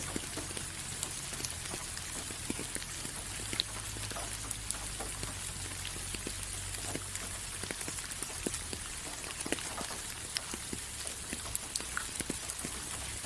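Steady rain falling, with many individual drops ticking sharply on a hard surface over a constant hiss and a low rumble.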